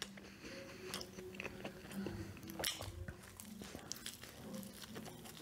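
A person chewing McDonald's french fries close to the microphone, with many small wet clicks and crunches from the mouth.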